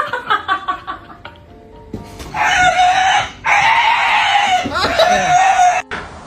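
A chicken screeching loudly twice, a short raspy call and then a longer one of about two seconds. Before it comes a quick run of falling musical notes.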